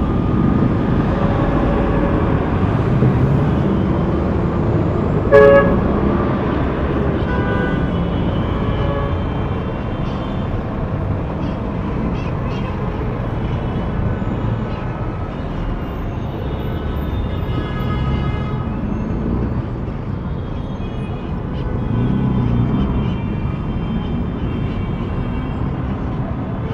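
City street traffic: a steady rumble of passing cars, with a short, loud car horn toot about five seconds in and fainter pitched sounds later on.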